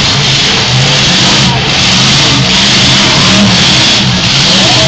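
Demolition derby cars' engines running and revving loudly, several at once, as the wrecked cars are jammed together.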